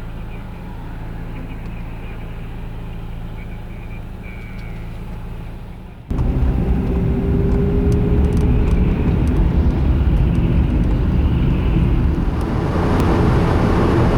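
Vehicle engine running with a steady low hum. About six seconds in, it cuts abruptly to louder traffic and wind rumble on the highway, with the rising hiss of a vehicle passing near the end.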